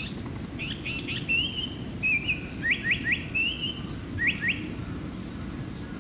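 Lanyu paradise flycatcher singing: short buzzy phrases mixed with bursts of quick rising whistles, three in a row about halfway through and two more a little later. A steady low rumble runs underneath.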